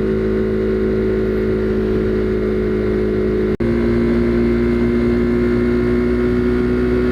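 Husqvarna Svartpilen 401's single-cylinder engine running steadily at cruising speed, with wind rush on the microphone. A split-second break in the sound comes about three and a half seconds in, after which the engine note is slightly higher.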